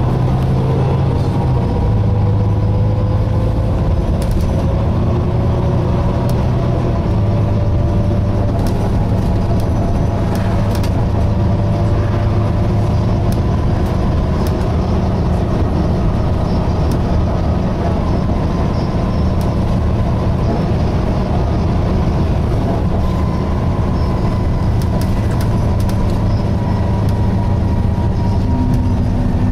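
Volvo B9TL double-decker bus under way, heard from on board: a steady low diesel drone that shifts in pitch a few times, with fainter whining tones that slowly rise and fall.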